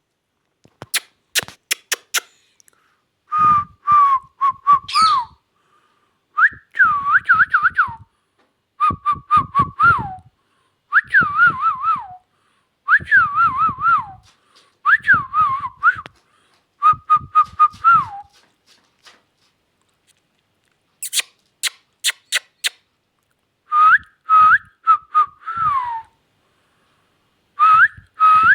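Indian ringneck parakeet whistling short wavering phrases that hover around one pitch and often drop at the end, in repeated bouts of a second or two. Sharp clicks come near the start and again about two-thirds of the way through.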